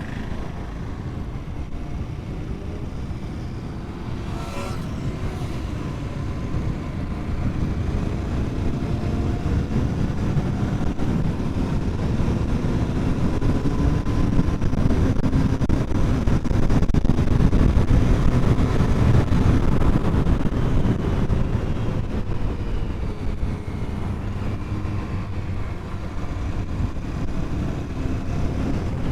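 Royal Enfield Continental GT 650's parallel-twin engine running at road speed, with heavy wind rush on the microphone. The sound grows louder through the middle and eases off near the end.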